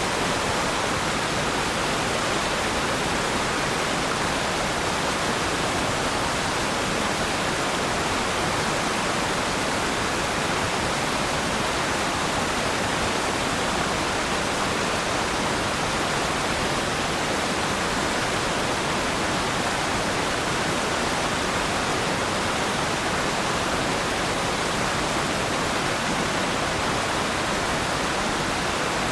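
Waterfall, a steady rushing of falling water with no changes.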